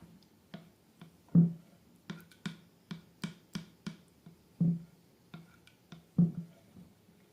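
Slime being squished and worked by hand: a series of irregular sticky clicks and pops, about a dozen, the loudest about a second and a half in.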